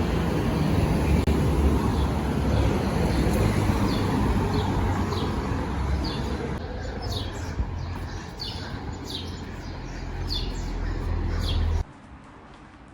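Birds chirping in a quick series of short, falling notes over a steady low rumble like traffic; the rumble and chirps cut off suddenly near the end.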